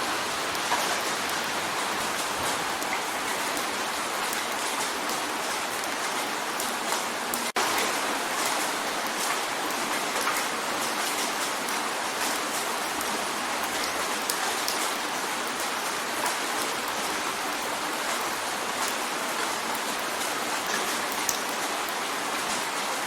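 Steady rain drumming on a window pane, a dense even hiss with many small drop taps. It cuts out for an instant about seven and a half seconds in.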